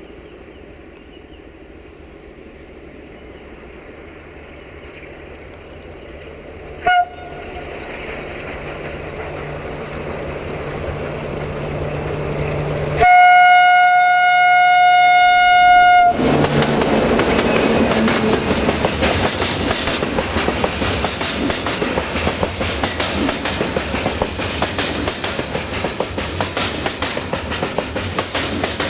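060-DA (ST43) diesel-electric locomotive with its Sulzer 12LDA28 engine approaching, its engine note growing steadily louder. It gives a brief horn toot about seven seconds in and a long horn blast of about three seconds as it comes close, which is the loudest sound. The freight wagons then roll past with a steady clickety-clack of wheels over the rail joints.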